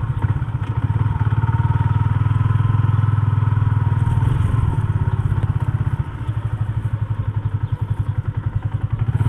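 Yamaha Sniper 150's single-cylinder four-stroke engine running steadily at low revs, its firing pulses even and unbroken, easing slightly and becoming more uneven about six seconds in.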